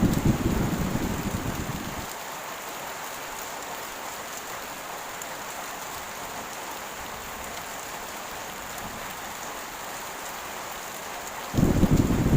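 Steady heavy rain hissing, with a low thunder rumble dying away over the first two seconds. Near the end a fresh peal of thunder breaks in suddenly.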